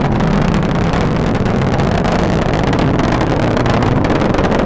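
Atlas V rocket in powered ascent just past Mach 1: a steady, loud roar with crackling from the RD-180 first-stage engine and five solid rocket boosters.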